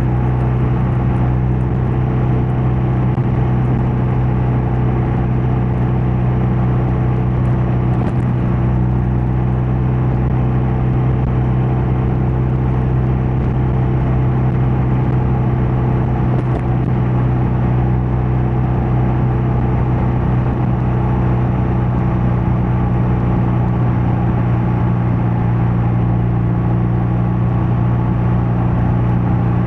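BMW R12 nineT boxer-twin engine and exhaust running at a steady cruise while riding: an even, low drone that holds the same pitch and level throughout.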